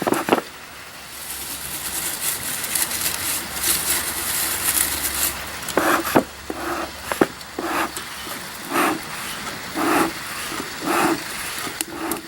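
Beehive smoker's bellows being pumped, a short puff of air about once a second from the middle on, each pump forcing air through the fire pot of burning paper towel and pine needles. Before the pumping, a steady hiss with fine crackling from the pine needles catching, over a low hum.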